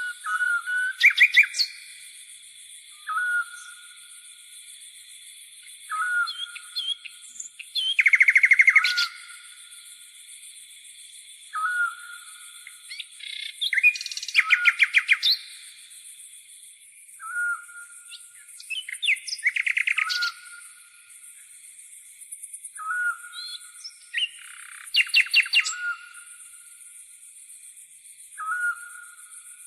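Songbirds singing: a short, rising whistled note repeated every few seconds, and bursts of rapid trills about every five or six seconds. A steady high-pitched insect buzz runs underneath.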